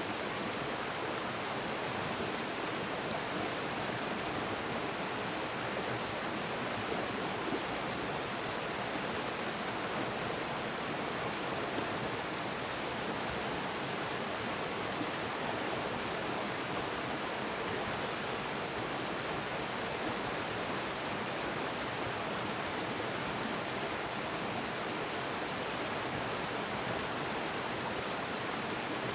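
Woodland stream flowing, a steady, unbroken rush of running water.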